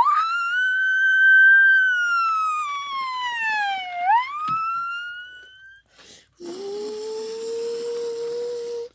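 Police-style siren wail: it sweeps up, falls slowly over about four seconds, then rises again. After a short break, a steadier lower drone with a hiss starts about six and a half seconds in and cuts off near the end.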